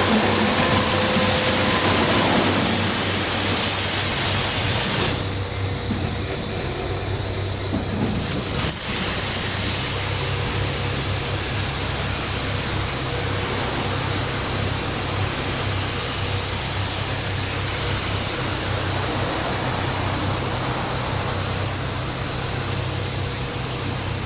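Daifuku Fabrica automatic car wash machine running over a car: a steady spray of water with a low machine hum. The hissing spray drops away about five seconds in and returns a few seconds later.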